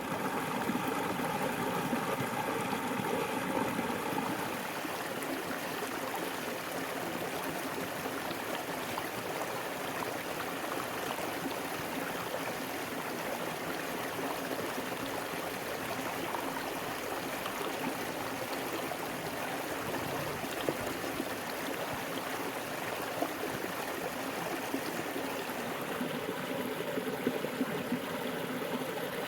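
Heavy rain falling steadily, an even rushing hiss with scattered patters and ticks.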